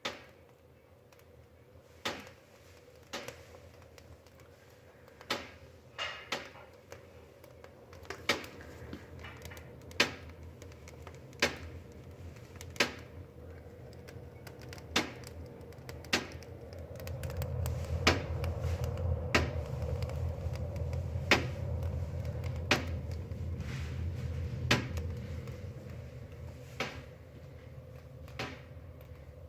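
Wood fire in a fireplace crackling: sharp, irregular pops and cracks every second or two. A low, steady rumble rises about halfway through and fades a few seconds before the end.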